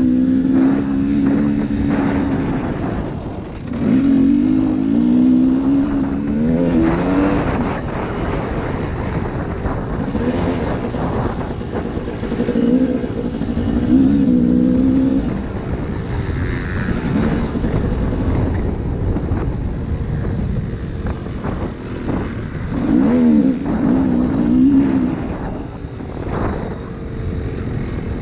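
A 2012 KTM 250 SX two-stroke dirt bike engine revving hard in repeated surges as it is ridden, its pitch climbing and dropping with each twist of the throttle, over a constant rushing noise.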